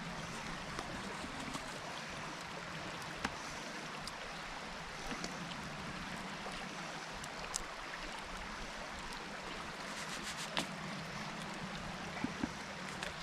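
A creek running steadily, with a few light clicks and taps over it.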